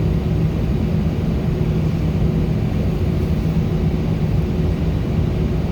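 Steady cabin drone inside an Airbus A319 with its engines running: an even rushing noise with a constant low hum.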